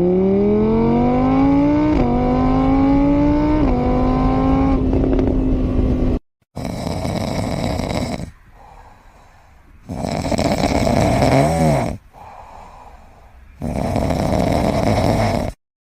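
An engine revving up through the gears, its pitch climbing and dropping back at each shift, then holding steady. After a cut comes loud, rhythmic snoring, one long breath about every three and a half seconds.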